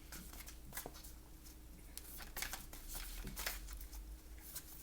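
Faint handling of a deck of tarot cards: scattered soft clicks and rustles as cards are slid and flipped, over a steady low hum.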